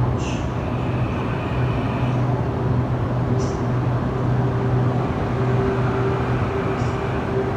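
Steady low hum and rumble of a moving vehicle, broken by three short high hisses.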